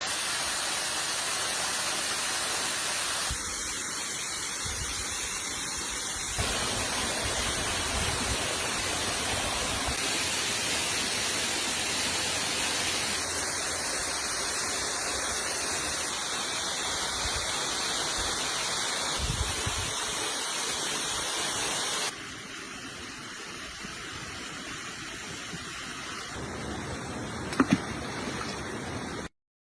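Steady rushing water, like a stream or small waterfall, shifting abruptly in tone and loudness a few times.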